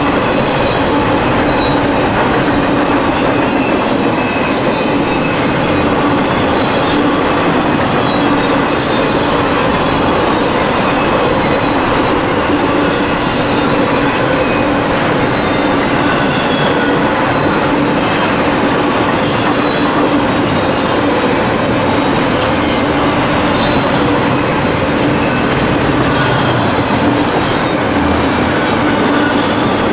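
Double-stack intermodal freight train's well cars rolling past: a loud, steady noise of steel wheels on rail that does not let up.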